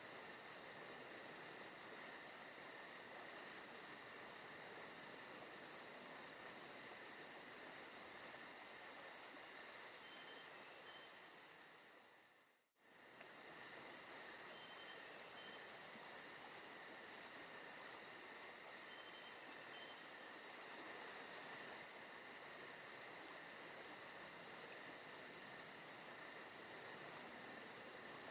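Recorded forest ambience of crickets chirping: a steady insect chorus with a fast, high pulsing trill over a soft hiss. Just before the middle it briefly fades out and back in.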